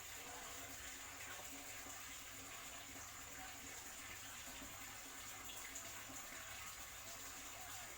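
Faint, steady hiss of background noise with no distinct sounds standing out.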